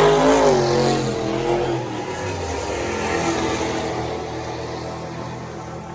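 Drag-racing car's engine at full throttle on the strip. Its pitch rises and dips in the first second, then it fades steadily as the car draws away.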